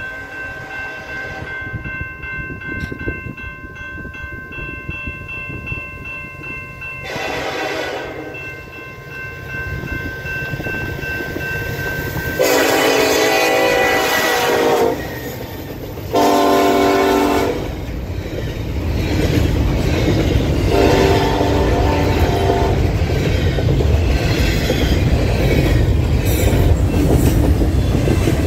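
Freight locomotive horn sounding four blasts as it approaches and passes a level crossing, the crossing signal pattern, over a steady ringing tone during the first dozen seconds. Then the rumble and clickety-clack of double-stack intermodal container cars rolling past close by.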